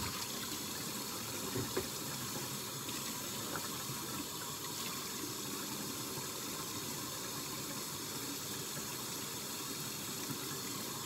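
Kitchen faucet running steadily into the sink while dishes are washed by hand.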